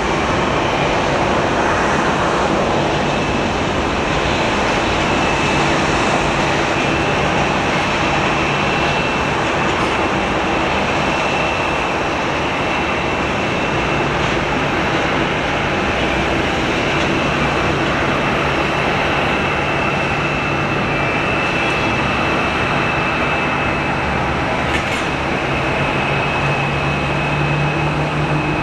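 Boeing 747-400's Rolls-Royce RB211 turbofan engines running, a loud, steady rumble with a high, steady whine over it.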